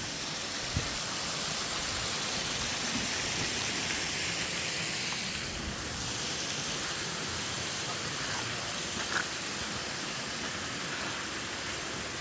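Steady rushing of water from a stream and waterfall, an even hiss without breaks.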